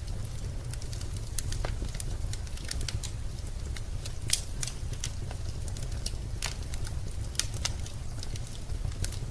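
Wood fire burning in a fireplace, crackling with irregular sharp pops, the loudest about four seconds in, over a low steady rumble.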